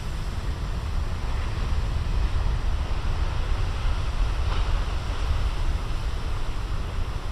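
Big ocean waves breaking and washing onto a beach, a steady rush of surf, with wind rumbling on the microphone.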